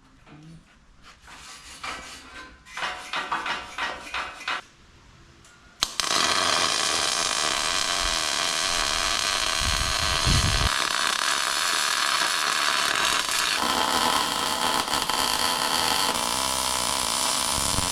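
Some light knocks and scrapes of metal work, then about six seconds in an electric power tool starts abruptly and runs steadily on steel.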